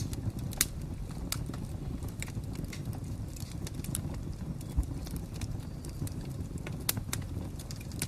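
Fire crackling: sharp, irregular pops and snaps over a steady low rumble.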